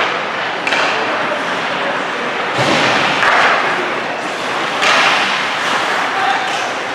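Ice hockey play in a rink: thuds of the puck and players against the boards over a steady noisy wash of skating and arena sound, with sudden louder surges three times.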